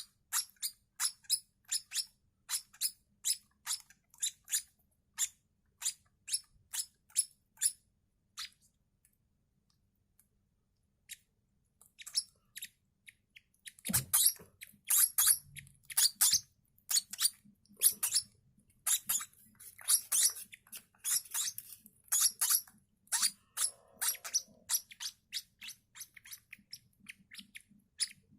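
Lovebird chicks peeping: short high cheeps about two a second, then a few seconds of quiet, then louder, faster cheeping from about halfway, with a soft knock where it picks up again.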